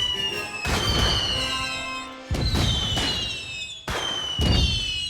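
Game celebration sound effect of fireworks: several bangs in a row, each followed by a high whistle that falls slowly in pitch, with music.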